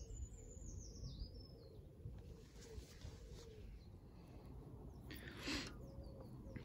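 Outdoor ambience with a songbird singing a quick phrase of falling notes in the first two seconds, over a steady low rumble, and a brief rushing noise about five seconds in.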